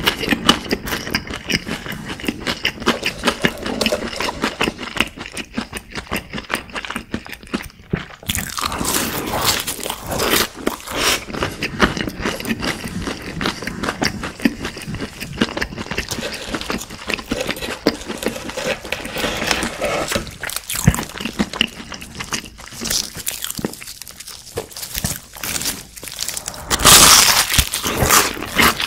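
Close-miked eating sounds: chewing with many small clicks, then near the end a louder crackling crunch from a piece of crispy fried chicken.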